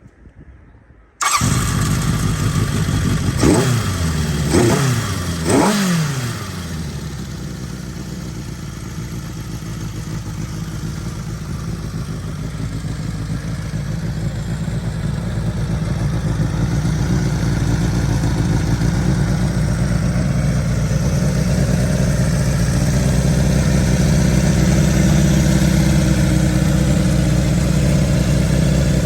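Honda CB750F's air-cooled inline-four engine starting: it catches abruptly about a second in and is given three quick throttle blips. It then settles into a steady idle that grows slightly louder as it warms.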